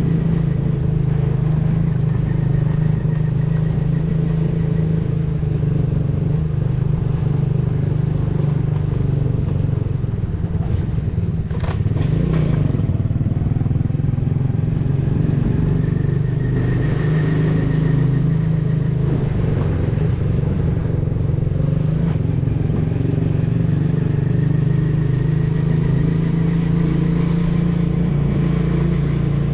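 Custom 125 cc motorcycle engine and exhaust running steadily under way, easing off slightly about ten seconds in. There is a single sharp click about twelve seconds in.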